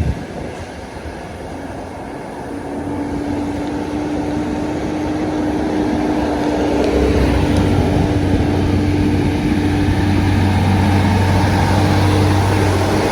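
A heavy vehicle's engine running, with a steady low hum that grows louder over several seconds as it draws near.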